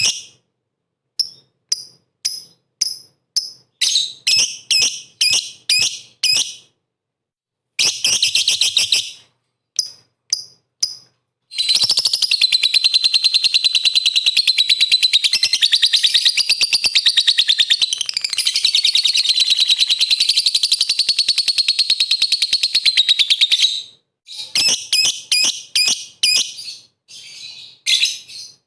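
Lovebird singing: groups of short, sharp, high chirps, then a long unbroken rapid trill of about twelve seconds in the middle, then more short chirps near the end. It is a lure recording of a lovebird in full song, used to provoke other lovebirds into singing.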